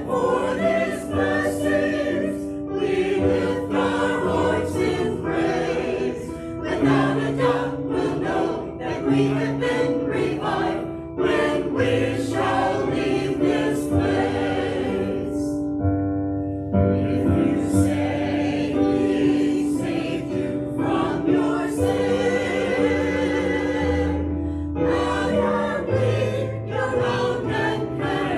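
Worship song: several voices singing together with instrumental accompaniment and a moving bass line.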